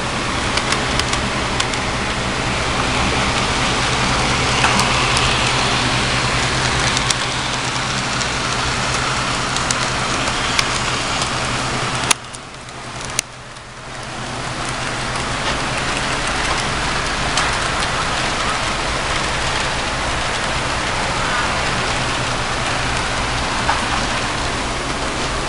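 Model train running around a layout: a steady rumble of wheels and motor with a low hum and scattered sharp clicks. It drops away for a moment about halfway through, then comes back.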